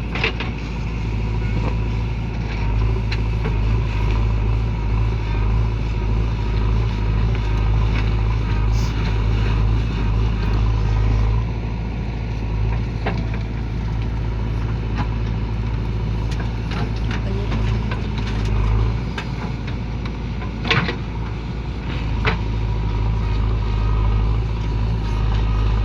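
Heavy diesel machinery engine running steadily with a deep hum, with a few sharp knocks along the way, the loudest a little past the two-thirds mark.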